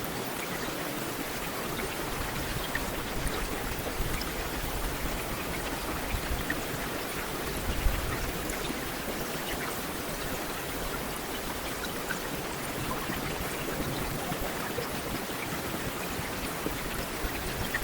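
Heavy rain falling steadily: an even hiss with scattered drop ticks, and one brief louder thud about eight seconds in.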